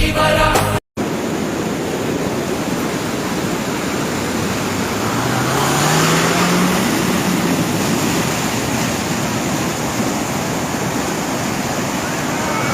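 Steady rush of water from the Karanja reservoir, filled by heavy rain, running as an even roar throughout, after a snatch of music that cuts off in the first second.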